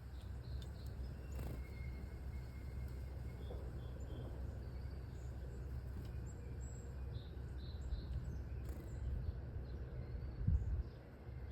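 Small birds chirping faintly and sparsely over a steady low rumble of outdoor background noise, with one low thump about ten and a half seconds in.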